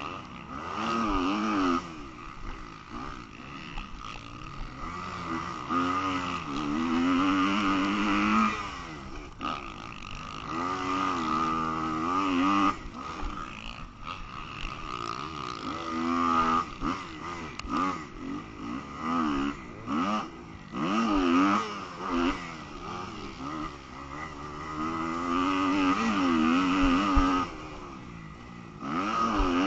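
Motocross bike engine revving hard and backing off over and over, its pitch climbing and dropping every couple of seconds as the rider works the throttle and shifts on the track.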